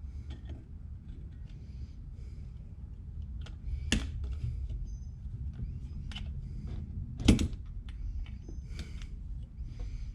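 Light clicks and taps of small metal carburetor parts and hand tools being handled during a Honda CB450 carburetor teardown, with a sharp knock about four seconds in and a louder one a little after seven seconds, over a steady low rumble.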